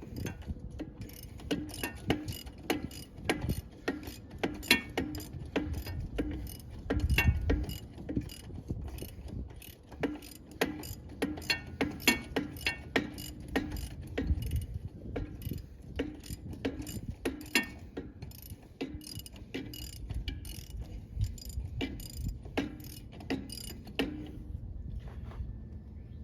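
Ratchet wrench clicking in quick, uneven runs of a few clicks a second, as a fastener is worked with it.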